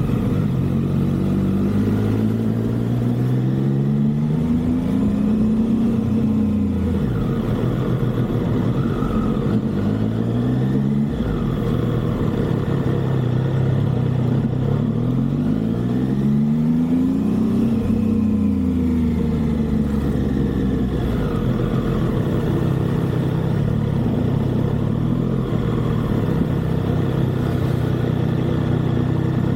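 Motorcycle engine pulling hard while riding, its pitch climbing and dropping several times as it accelerates through the gears, then running steadily near the end. Steady wind rush throughout.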